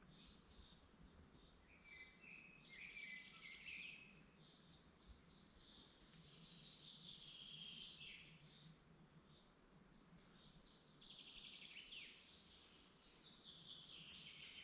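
Faint woodland birdsong: songbirds singing in phrases of a few seconds, some as rapid trills and some falling in pitch, with short pauses between.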